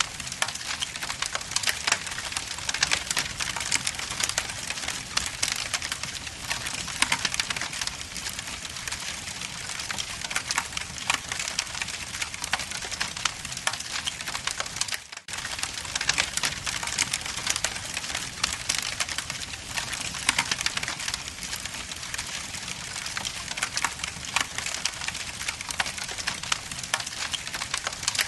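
Wood logs burning in a fireplace, crackling with dense, irregular pops and snaps over a steady hiss. The sound briefly drops out for a moment about halfway through.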